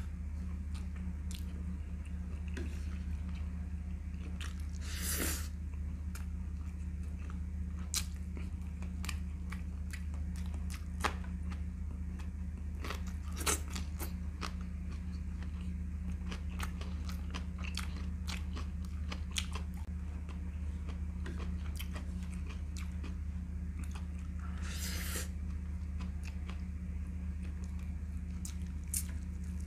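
Close-miked eating sounds of a man chewing chicken pulled off the leg by hand: chewing with frequent small wet clicks and lip smacks as he licks his fingers. A steady low hum runs underneath.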